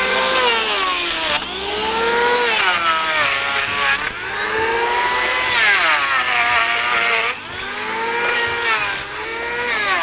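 Electric hand planer running on a wooden boat frame. Its motor whine sags in pitch each time the blade bites into the timber and recovers between passes, about four passes in all. It is shaving down high spots so the frame timbers sit level.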